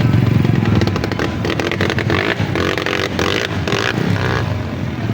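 Dirt bike engines running and revving, with a louder, rapidly pulsing burst of engine noise from about one and a half to four seconds in.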